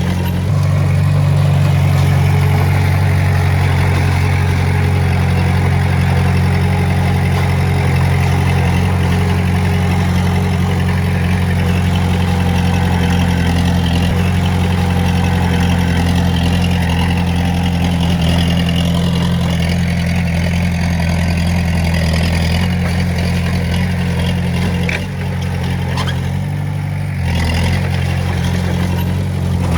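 Heavy machine's diesel engine running steadily under load, with a short dip in level about 25 seconds in.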